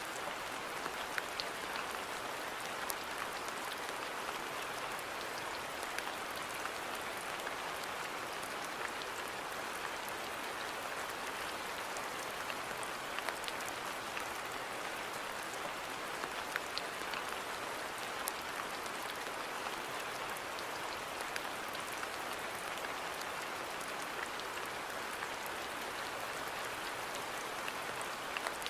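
Steady rain falling in a garden, an even hiss with scattered sharper drop ticks.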